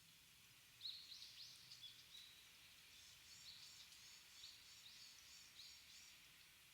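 Small songbirds calling in a bamboo grove: many short, high chirps and twitters overlapping, with a sharper call about a second in.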